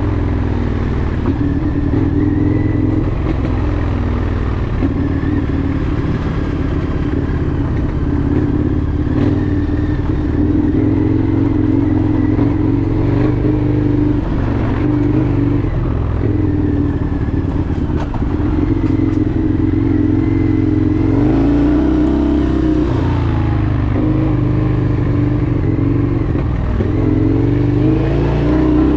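Indian FTR 1200's V-twin engine running under way, its pitch dipping and rising a few times with throttle changes, most clearly past the middle and near the end, over a steady low rumble.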